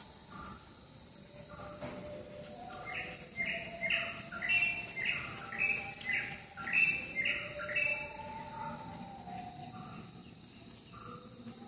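A bird chirping: a run of about ten short, bright chirps, roughly two a second, for a few seconds in the middle.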